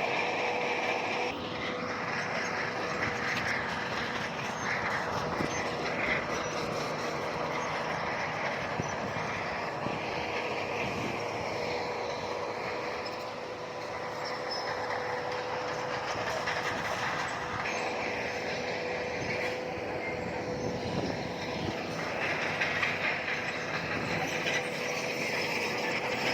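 Crawler bulldozer working, its engine running steadily while the steel tracks clank and squeal. The squeal comes and goes, loudest at the start and again in the last third.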